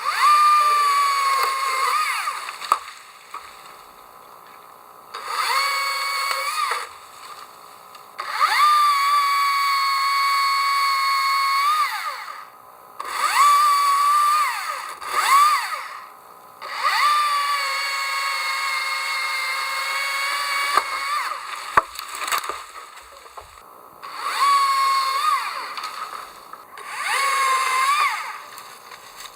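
Chainsaw revved up in repeated bursts of a few seconds each, rising to a steady high whine while cutting and dropping back toward idle between cuts, about eight times.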